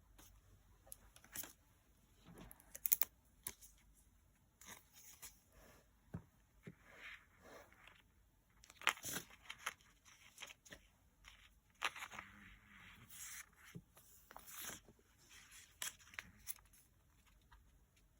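Paper being torn and crinkled by hand in short, irregular bursts.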